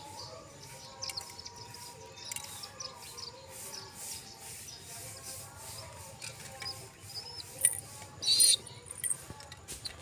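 Small birds chirping with short high chirps, over light clicks of a pigeon pecking seeds from a bare palm. A brief, loud rustle comes near the end.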